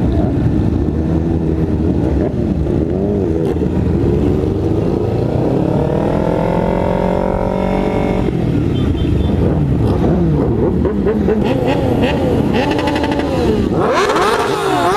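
Several sport-bike engines running and revving together in a group, their pitches overlapping and rising and falling. One engine climbs steadily for a few seconds and drops suddenly about eight seconds in as it shifts up. Higher, busier revving comes near the end, over a steady low rumble of wind and road noise.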